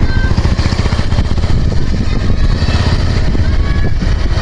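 Motorcycle running while being ridden, with heavy wind rumble buffeting the microphone.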